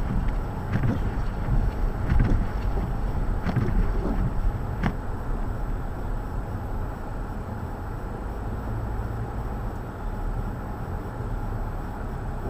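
Blizzard wind buffeting the microphone as a steady low rumbling noise, with a few faint clicks in the first five seconds.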